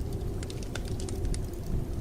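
Wood fire crackling in a fireplace, with irregular sharp snaps several times a second, over the steady low rumble of blizzard wind.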